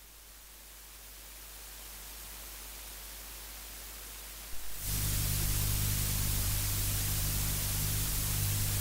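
Steady hiss that slowly grows louder. About five seconds in it steps up suddenly, and a low steady hum joins it, the kind of lead-in noise heard before a recording's music starts.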